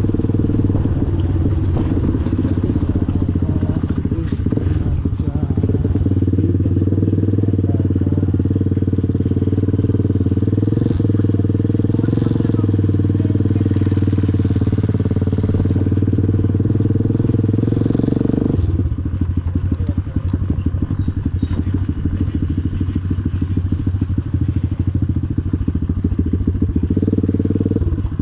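Motorcycle engine running steadily under way. About two-thirds through the note eases off, as if the throttle is closed, and it picks up again near the end.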